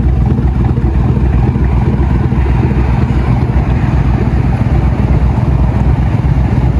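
Vehicle engine idling, a steady low hum throughout.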